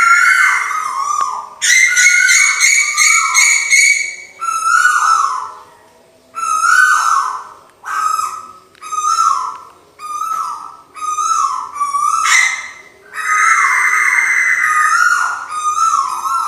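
Bird-call lure recording of tuwu birds: a run of short whistled notes, each falling in pitch, repeated about once or twice a second, with a louder high steady trill over them at the start, a couple of seconds in, and again near the end.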